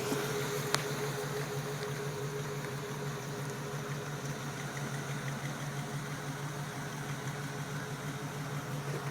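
Chevrolet 350 small-block V8 idling with a steady low hum, its carburetor in need of adjustment after eleven years of storage. A single faint click sounds about a second in.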